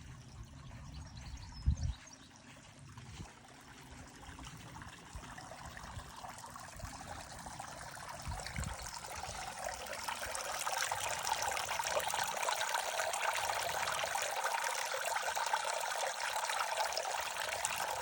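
Water running and trickling, an even rushing that grows steadily louder through the second half. A low thump about two seconds in and another near the middle.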